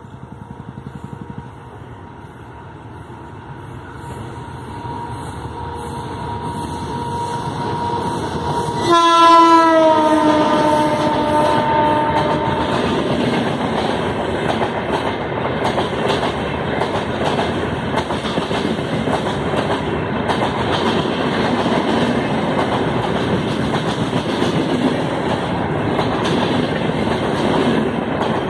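Indian Railways WAP-7 electric locomotive running through at speed, growing louder as it approaches. About nine seconds in, its horn blows loudest and drops in pitch as it passes; a long rake of LHB passenger coaches then runs past with a steady rumble of wheels on rail.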